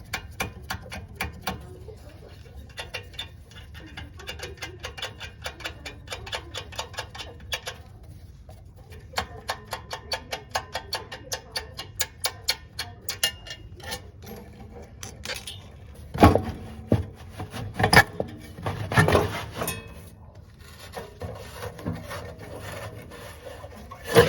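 Quick, repeated sharp clicks from hand tools being worked on the water heater's fittings, about five a second, followed by several louder clunks and scraping near the end.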